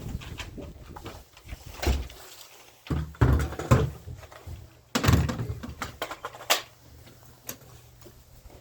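Irregular knocks and clunks of hard objects being handled and set down, with the sharpest knocks about two, three, five and six and a half seconds in.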